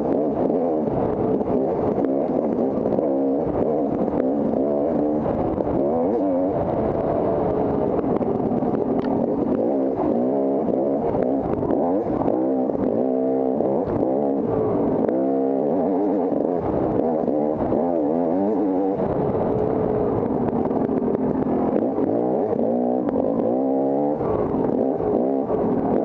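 Dirt bike engine being ridden hard off-road, its revs rising and falling constantly with throttle and gear changes.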